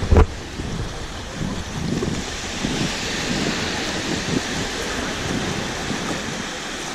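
Wind buffeting the microphone over the steady hiss of surf, with a brief thump just after the start.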